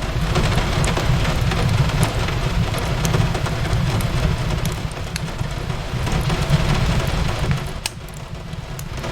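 Steady rain falling on a window, with scattered small crackles from a wood fire in a fireplace over a continuous low rumble.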